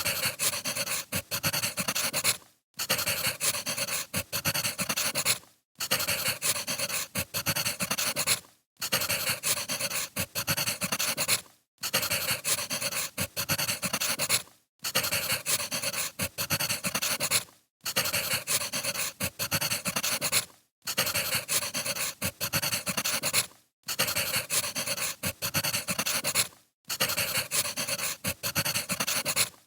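Crackling wood fire, a dense run of pops and snaps over a soft hiss. The recording is a short loop that drops out briefly about every three seconds.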